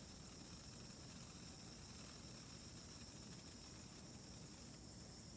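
Faint, steady background hiss with a thin, high-pitched tone held steady over it. No distinct crackles or pops stand out.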